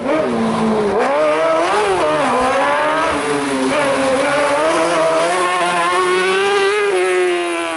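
Competition car engine driven hard on a rallymix stage, its pitch climbing and dropping several times as it accelerates, then falling near the end.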